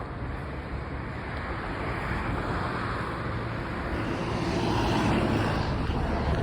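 Road traffic going by, with a vehicle approaching and growing steadily louder.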